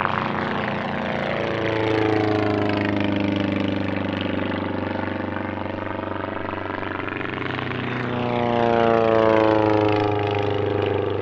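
Small Volkswagen-engined Druine Turbulent light aircraft making low passes. The propeller engine note drops in pitch as each one goes by: one pass about two seconds in and another near the end.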